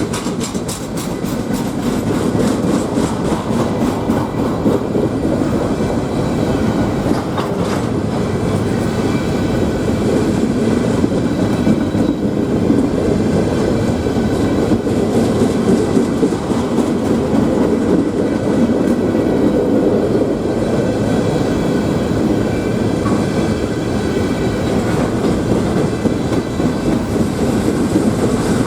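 Freight train cars rolling steadily past, with wheels clattering over the rail joints.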